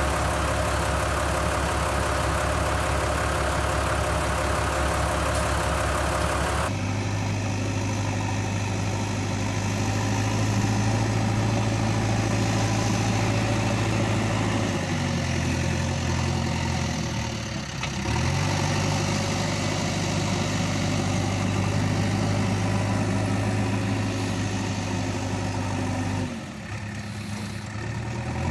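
Engine idling steadily with a low hum. Its tone changes abruptly several times, with a short dip and rise in pitch about two-thirds of the way through and a brief drop in level near the end.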